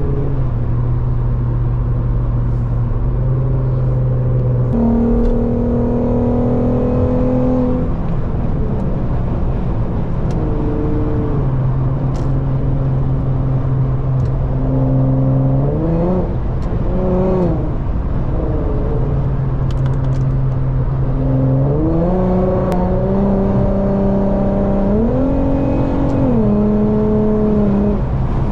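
Car engine and exhaust under way at highway speed, over steady road noise. The engine note holds level for stretches, steps up and down several times, and rises and falls quickly twice around the middle.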